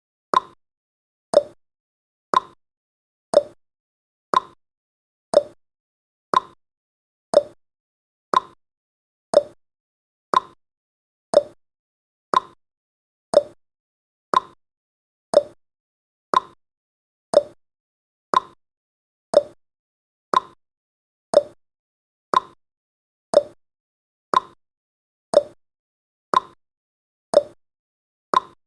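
Countdown timer's ticking sound effect: short, sharp ticks once a second, alternate ticks higher and lower in pitch like a clock's tick-tock.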